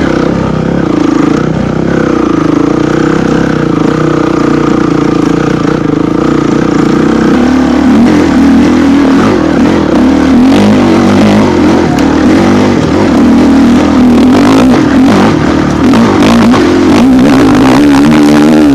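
Off-road vehicle engine running hard under load, steady at first, then louder from about eight seconds in with its pitch rising and falling as the throttle changes.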